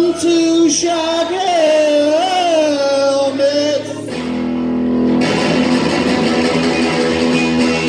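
Live folk-punk song: a singer holds one long, wavering note over strummed guitar chords, breaks off about four seconds in, and the guitar carries on alone.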